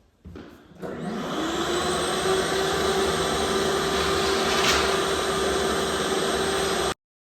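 A high-speed electric motor starts about a second in, winds up to a steady whine over a dense rushing noise, and cuts off abruptly near the end.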